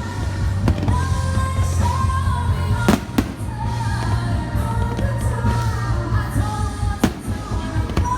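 Loud pop music with a singer over a steady bass beat, as played for a fireworks show. Several sharp firework bangs cut through it, the loudest about three seconds in and another near seven seconds.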